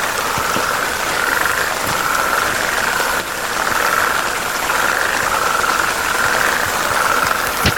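Frogs calling in a chorus: pulsed, trilling calls, each under a second long, repeating about once a second over a steady background hiss.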